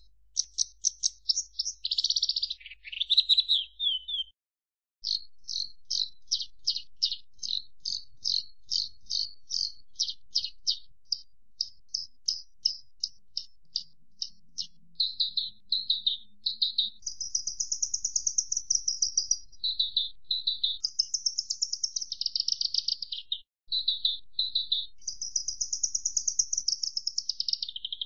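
Horsfield's bush lark (branjangan) singing: fast runs of short high chirps that pick up into rapid trills, mixed with longer buzzy phrases. The song breaks off briefly about four seconds in and again near the end.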